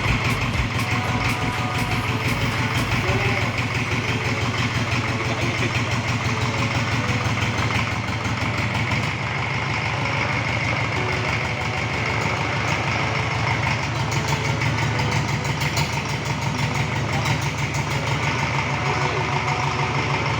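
Rebuilt forklift diesel engine idling steadily.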